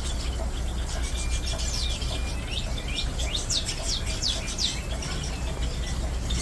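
Aviary birds chirping, with a quick run of high whistled notes that sweep downward in pitch from about a second and a half in to nearly five seconds in.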